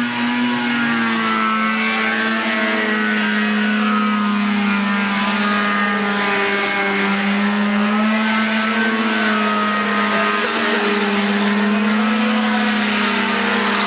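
Dirt bike engine revving up and then held at steady high revs while being ridden, its pitch wavering slightly.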